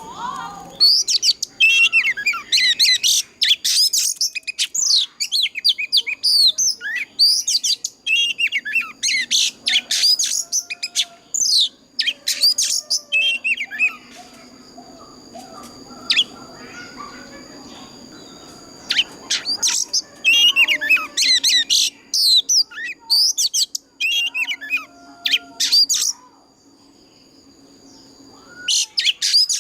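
Oriental magpie-robin singing its wild-type song: fast runs of varied, sweeping whistled notes in bursts. The song pauses for about two seconds near the end, then starts again.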